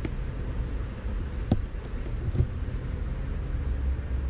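Two short knocks from a camera being adjusted by hand, over a steady low outdoor rumble.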